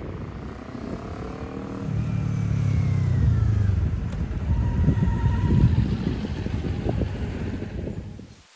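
A motor vehicle's engine running, growing louder about two seconds in, with its pitch rising and falling, then cutting off abruptly near the end.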